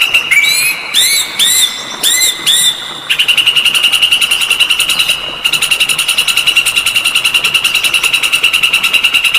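Recorded songbird song played for bird training: a fast, evenly pulsing high trill, broken near the start by a run of five arched whistled notes about half a second apart, after which the trill resumes.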